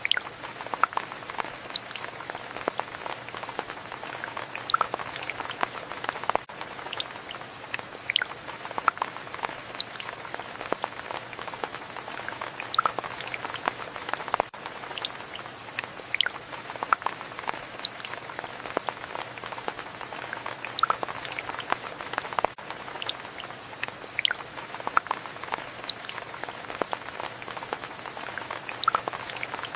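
Rain falling steadily, with many individual drops landing close by as irregular sharp drips over an even hiss.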